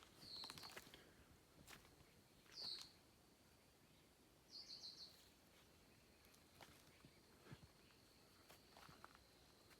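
Faint chirps of small birds: two single high chirps a couple of seconds apart, then a quick run of four or five notes about halfway through, followed by a thin, steady high note that holds on.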